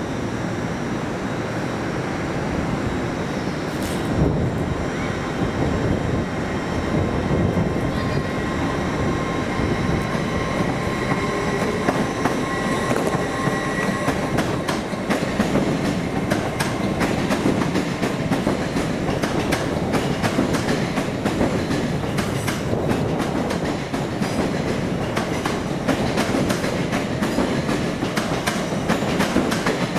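A train running along the rails through the station, its wheels clicking over rail joints, the clicks coming thicker from about halfway through. A faint high squeal can be heard in the first half.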